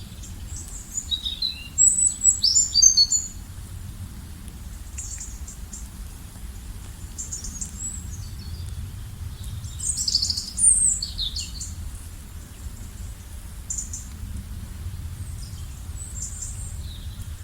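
Songbirds chirping and calling in bursts, busiest about one to three seconds in and again around ten seconds, with scattered quieter chirps between, over a steady low rumble.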